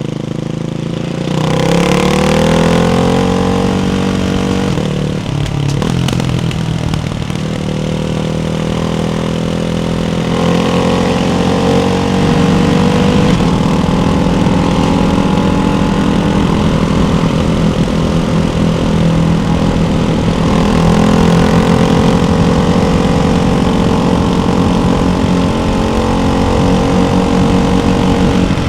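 Ducati Hypermotard 698 Mono's single-cylinder engine through a Termignoni exhaust with the baffles fitted, under way: the revs climb about a second or two in, drop briefly around five seconds, then hold fairly steady with small rises near ten and twenty seconds.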